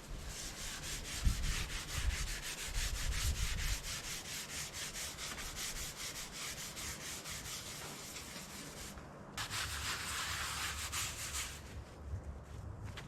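Rapid, scratchy hand strokes scrubbing the surface of the backhoe's cast iron front weights, cleaning it up for primer. The strokes pause briefly about nine seconds in, start again, and stop shortly before the end.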